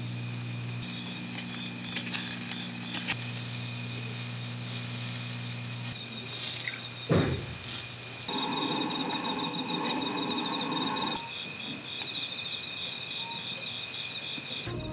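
Night insects such as crickets trilling steadily in high, unbroken tones, joined about halfway through by a fast pulsing chirp. A few sharp clicks come early, and there is a short stretch of rushing noise in the middle.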